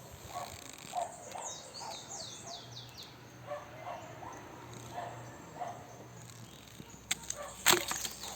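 Outdoor countryside sounds: a dog barking now and then, some way off, with a bird giving a quick run of falling chirps in the first few seconds. A few sharp clicks sound near the end.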